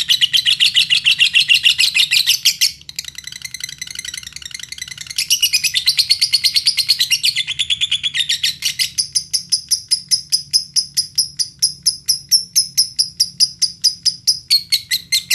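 Lovebird chattering in a long, unbroken, fast trill of short high chirps, the 'ngekek' song used as a lure recording to set other lovebirds singing. It drops quieter for a couple of seconds about three seconds in, and runs higher-pitched through most of the second half.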